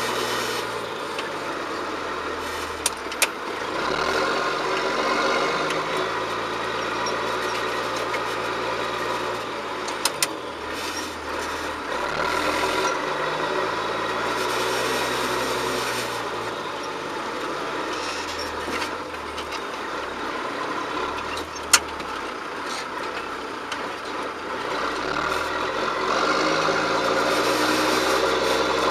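John Deere 7710 tractor's six-cylinder diesel engine running while ploughing, its speed rising and falling several times. A few sharp clicks or knocks are heard along the way.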